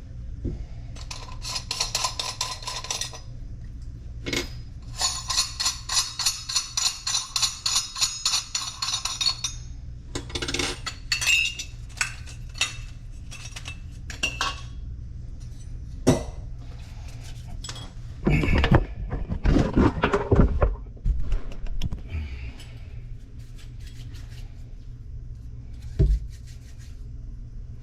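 Hand tools and small metal parts clinking and rattling during plumbing work, with two runs of quick even clicks early on and a louder clatter of knocks about two-thirds of the way through, over a steady low hum.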